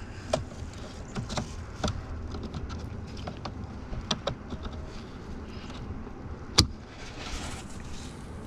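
Small plastic clicks and scrapes of a tight blade fuse being worked out of a truck's under-hood fuse box, with one sharper click about six and a half seconds in, over a low steady rumble.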